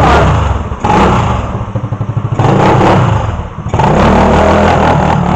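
A vehicle's engine running and being revved, four surges about a second long, each dropping back toward idle in between.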